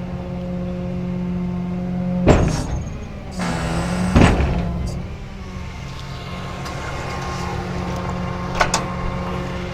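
Rollback tow truck's engine idling steadily, with a few sharp clunks, such as a vehicle door or equipment being handled: loud ones about two and four seconds in, smaller ones near the end.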